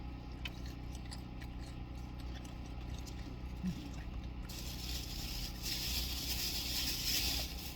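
Small clicks and scrapes of people eating takeout, with a stretch of rustling about halfway through that lasts some three seconds, over a steady low hum inside a car.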